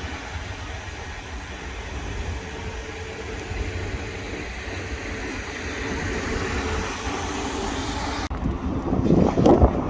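A train running through the station with a steady rumble and a faint held tone. About eight seconds in the sound cuts off abruptly and gives way to louder, uneven low rumbling.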